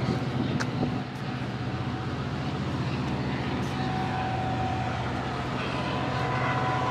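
A motor vehicle's engine idling steadily, a low even hum with a fine regular pulse.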